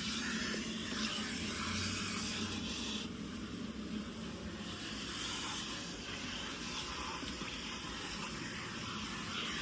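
Vacuum cleaner running steadily: a rushing hiss of air over a low motor hum. The hiss dulls for about two seconds some three seconds in, then comes back.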